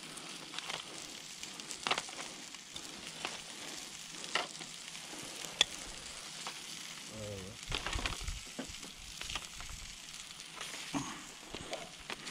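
Pigeon fillets sizzling on a grill over a wood fire, a steady hiss with scattered sharp crackles and pops.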